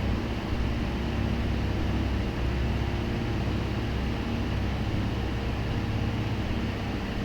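Steady low hum with even, fan-like air noise from a running machine.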